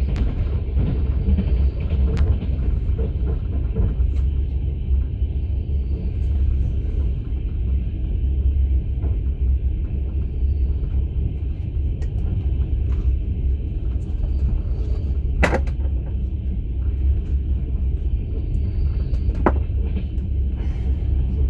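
Steady low rumble of a moving passenger train heard from inside an open-plan sleeper car, with a few sharp knocks, the clearest about two-thirds of the way through and another near the end.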